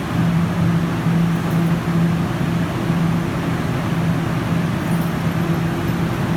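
Guangzhou Metro Line 1 train running at a steady speed: even rumble and rush of wheels on track with a steady low hum.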